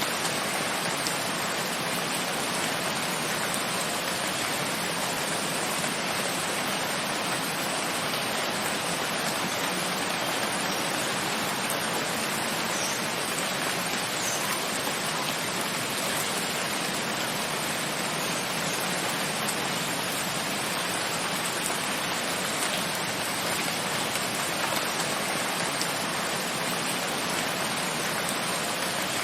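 Steady rain falling, an even hiss without break, with a few faint drop ticks here and there.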